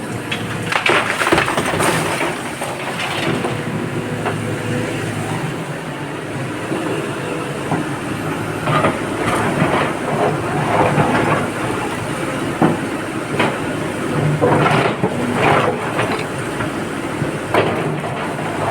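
Excavator loading a dump truck: a heavy diesel engine running steadily, with several spells of loose rock and soil clattering into the truck's steel bed.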